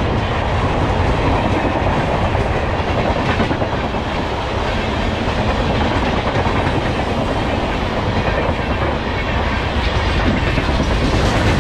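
Express train's LHB passenger coaches rolling past close by: a loud, steady rumble and rattle of steel wheels on the rails.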